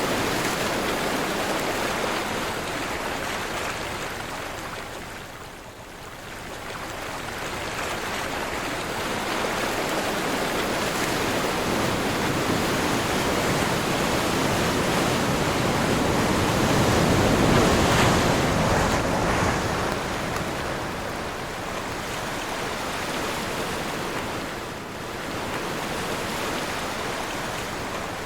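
Ocean waves breaking and washing in strong wind, a steady rush of surf that swells and ebbs, dipping about six seconds in and again near the end and building to its loudest about eighteen seconds in.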